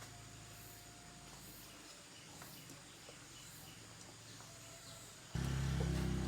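Faint background noise with a few light ticks, then a little over five seconds in a low, steady engine drone starts abruptly and runs on loud.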